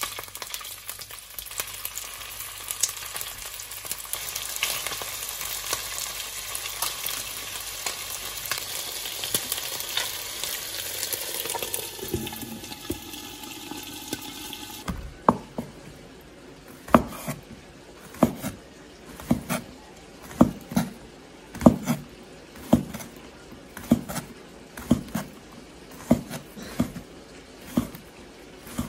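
Chicken wings sizzling in hot olive oil in a pan, stirred with a spatula. About halfway through this gives way to a kitchen knife chopping sausages on a wooden cutting board, a sharp knock roughly once a second.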